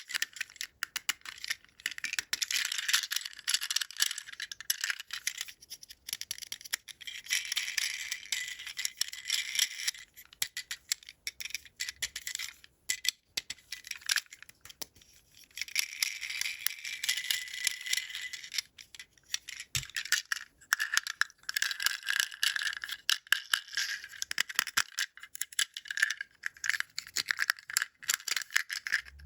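Plastic toy packaging and plastic toy parts being handled: dense crinkling and clicking in stretches, with short pauses between them.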